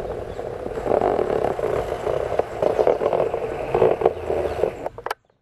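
A passenger train's coaches rolling past on the rails, with uneven louder surges of wheel noise from about a second in. The sound cuts off suddenly near the end.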